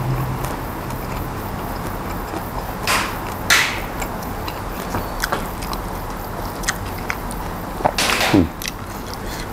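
Close-miked chewing of a mouthful of raw beef koi and fresh vegetables. There are small wet clicks throughout, and a few louder crisp crunches about three seconds in and again near eight seconds.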